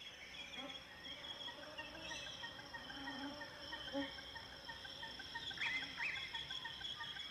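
Insects trilling steadily in a high-pitched chorus, with two brief chirps a little past five seconds.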